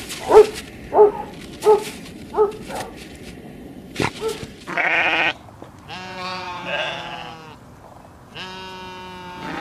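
A few short yips, repeated about every 0.7 s, then three long, quavering bleats from a goat or sheep. A sharp click comes between them.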